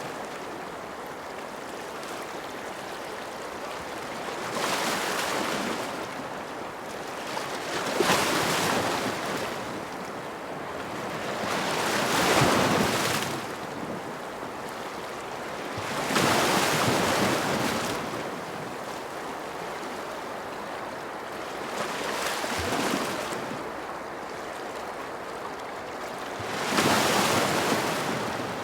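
Ocean waves: six surges of surf a few seconds apart, each rising and falling away over a steady wash.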